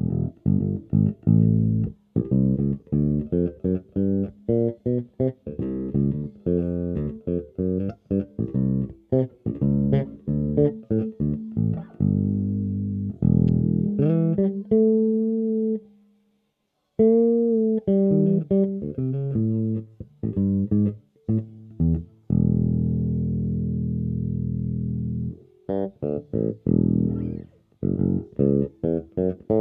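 Tokai AJB Jazz Bass-style electric bass played solo: a quick run of short plucked notes, with sliding notes around the middle, a brief pause, and one long held note about three quarters of the way through.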